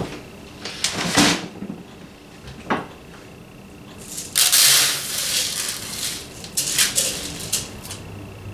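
A bird feeder being handled while it is filled with seed: a series of clicks and knocks, with a louder rustling rush lasting about half a second a little past the middle.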